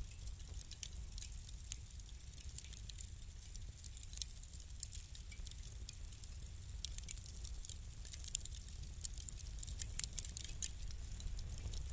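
Wood fire crackling: irregular small sharp pops and snaps, coming thicker about eight to eleven seconds in, over a low steady rumble.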